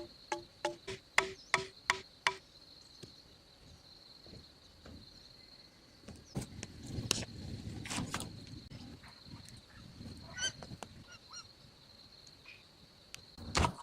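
Steady high insect drone, with a quick run of sharp knocks, about three a second, that stops about two seconds in. Rustling follows around the middle.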